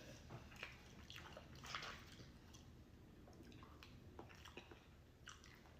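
Faint, wet chewing and mouth-smacking of a person eating, with scattered soft clicks.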